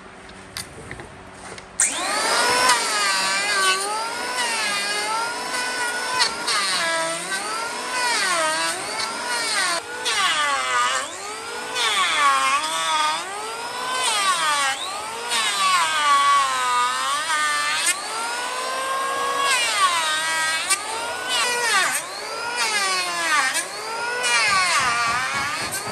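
A power tool's motor running, starting about two seconds in. Its pitch repeatedly dips and climbs back, roughly once a second, as it is loaded against the wood.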